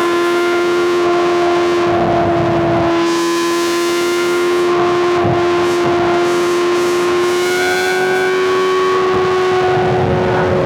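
Superbike inline-four engine and exhaust held at a steady high rev while cruising, its pitch creeping slightly higher, with wind and road noise underneath.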